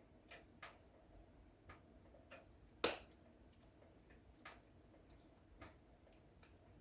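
Wood fire in a fireplace crackling faintly: scattered sharp snaps and pops at irregular intervals, one much louder pop about three seconds in, over a low soft hiss.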